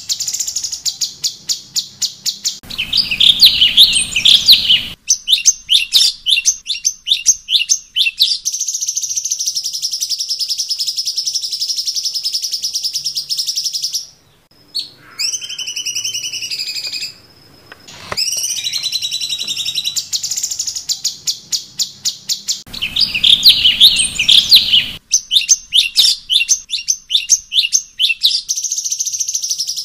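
A recorded cucak cungkok song played as a training track: fast clicking trills alternating with long, high, buzzy held notes, with a short quieter break about halfway. The same phrase sequence repeats about twenty seconds later, as a loop.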